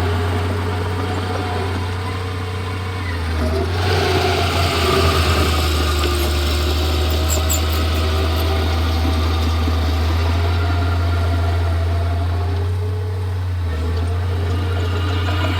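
Komatsu D31P crawler bulldozer's diesel engine running steadily. It eases off about three seconds in and picks up again a second later, then dips briefly once more near the end.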